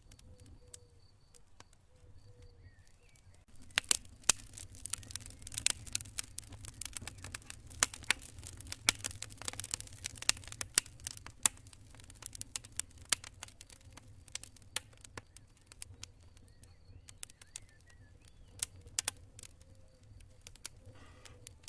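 Campfire crackling and popping, with irregular sharp pops that begin about three and a half seconds in, come thickly for ten seconds, then thin out. Crickets chirp in steady pulses at the start and again near the end.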